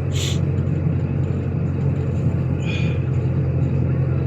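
Diesel car engine running while driving, a steady low drone with road noise; the engine is still warming up in winter cold. A short hiss at the very start and a brief higher squeak about three seconds in.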